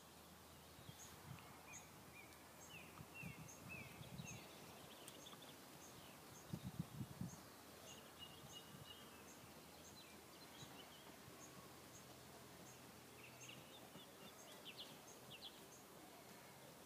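Faint birdsong: chirps and short sweeping whistles, with a high thin call repeated at a steady pace. A few dull low thumps come about three to four seconds in and again, loudest, around seven seconds in.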